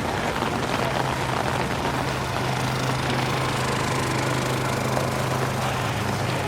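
Steady low hum of an idling motor vehicle engine over a constant hiss of rain and wet city-street noise.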